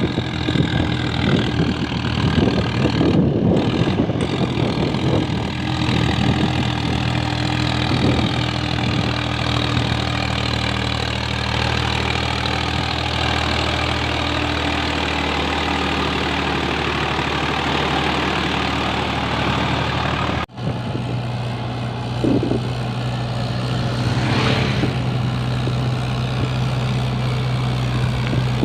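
Diesel tractor engine running steadily while hauling a fully loaded trolley. About twenty seconds in, the sound cuts off abruptly and a second tractor engine with a different steady note takes over.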